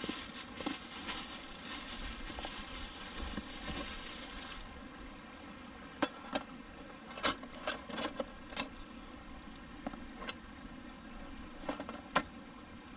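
Food grilling over a wood fire: a steady sizzle that cuts off suddenly about four and a half seconds in, followed by scattered sharp pops and crackles.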